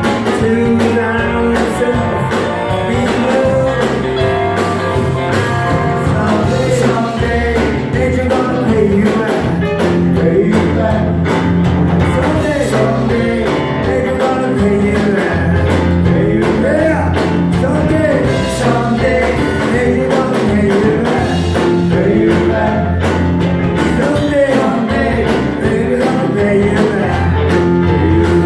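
Live rock-and-roll band playing a song at a steady, full level, with a bass line under a lead melody that bends in pitch.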